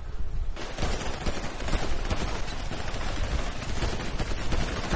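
Rapid, continuous gunfire: a sustained volley of shots that thickens about half a second in and keeps going.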